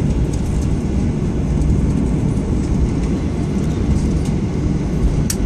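Steady low rumble of a Boeing 737 airliner with its jet engines running, with a few short clicks and rattles near the end.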